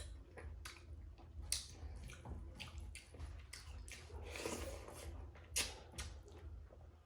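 Close-up wet eating sounds: chewing fatty pork and rice with irregular wet smacks and clicks of the mouth.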